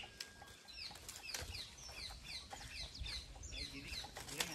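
A bird calling: a quick run of short, high notes, each sliding downward, about four a second for a couple of seconds.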